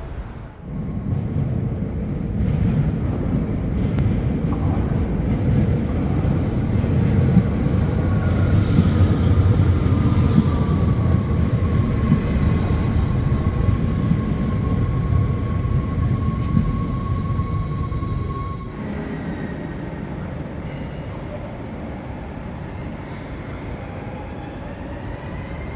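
An NS Sprinter electric train passing close along a station platform at speed: a loud rumble of wheels on rails, with a whine that glides slowly down in pitch. After an abrupt change about 18 seconds in, a quieter rumble of a double-deck NS Intercity train moving slowly, with faint high tones rising near the end.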